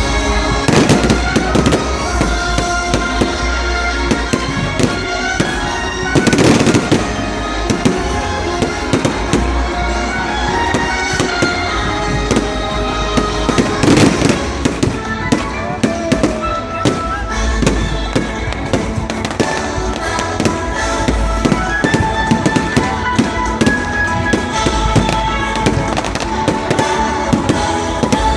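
Firecrackers going off in rapid strings of sharp cracks, with heavier bursts about a second in, at about six and a half seconds and at about fourteen seconds. Music with held notes plays underneath.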